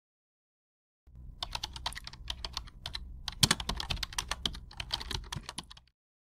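Rapid, irregular keyboard typing, many quick key clicks starting about a second in and stopping shortly before the end, over a faint low hum.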